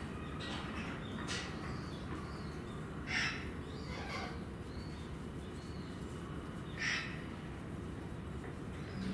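A few short, harsh bird calls scattered over a steady low background hum, the two loudest about three and seven seconds in.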